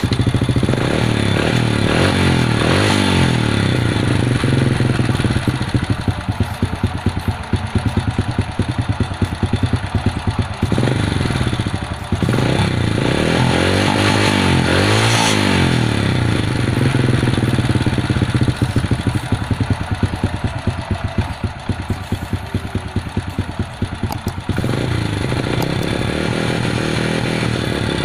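Honda Supra underbone motorcycle's single-cylinder four-stroke engine running, its speed dipping and rising several times, most clearly around the middle. This is the engine being tuned at the carburettor's idle and air screws after it had stumbled and refused to start.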